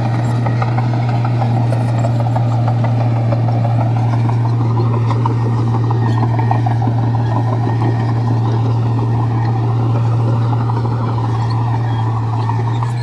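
Komatsu bulldozer's diesel engine running steadily with a strong low drone and mechanical noise over it.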